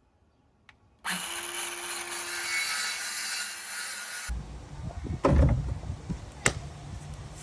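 Power saw cutting through a wooden panel for about three seconds, starting about a second in and stopping abruptly. After it, a low rumble with a couple of sharp knocks.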